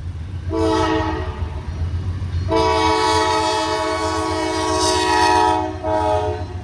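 Locomotive air horn sounding a chord in three blasts: a short one, a long one of about three seconds, then another short one, over the low rumble of the train.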